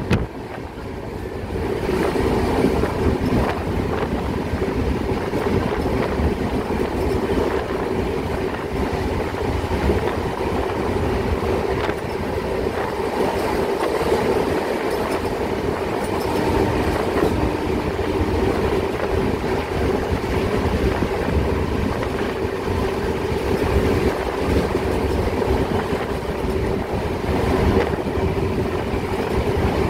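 Passenger coach of the Prashanti Express running at speed: a steady rumble of wheels on rail with a constant hum and faint clicks from the track.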